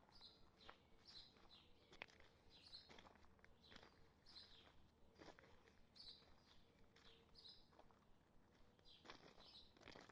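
Faint footsteps of someone walking along a woodland trail, with a bird chirping over them in short, high calls repeated about once or twice a second.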